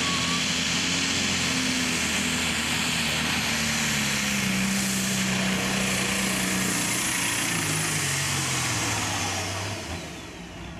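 A 10,000 lb pro stock pulling tractor's turbocharged diesel engine runs at full power under load, with a loud hiss over the engine note. From about seven seconds in, the engine note drops steadily in pitch, and the power comes off just before the end.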